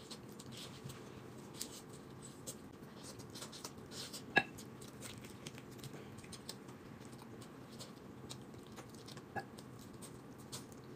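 Faint chewing and mouth noises of someone eating braised chicken by hand, with many small clicks and one sharper click about four seconds in.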